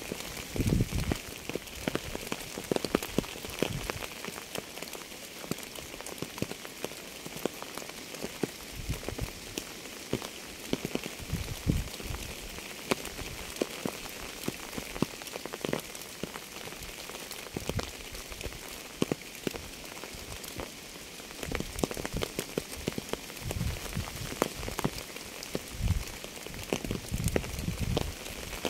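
Steady rain: an even hiss with many close drops landing as sharp taps, and heavier drops giving low thuds now and then, more of them near the start and the end.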